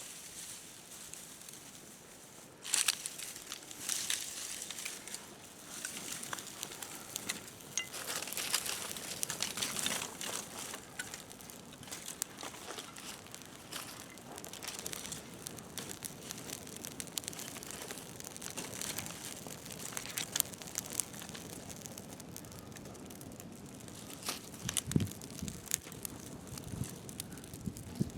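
Dry material crinkling and crackling as it is handled, with many short sharp clicks and a few louder taps scattered through.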